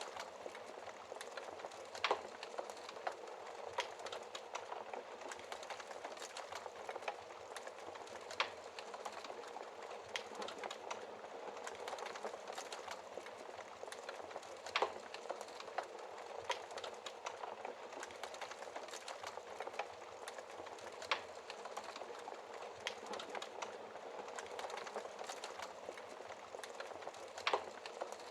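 Wood logs burning in a fireplace, crackling steadily: a soft hiss full of small ticks, with a louder sharp pop about every six seconds.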